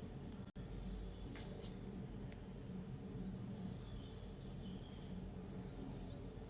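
Small birds chirping, faint short high chirps coming every second or so over a steady low hum.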